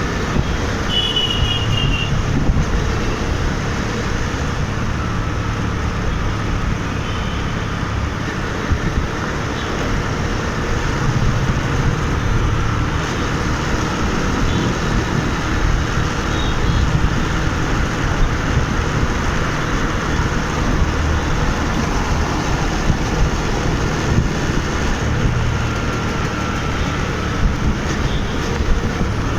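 Riding through busy city road traffic on a motorbike: steady engine and wind rumble with the surrounding traffic, and a short high-pitched horn beep about a second in.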